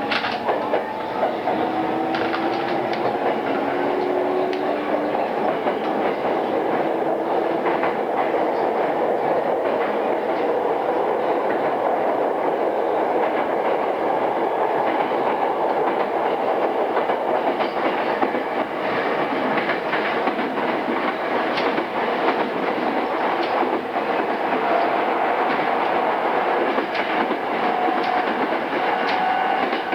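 JR East E217-series electric train, heard from inside motor car MoHa E217-2006 before its renewal, running steadily at speed with a steady rumble and the wheels clicking over rail joints. A faint whine from the traction motors rises in pitch in the first few seconds, and faint motor tones come back near the end.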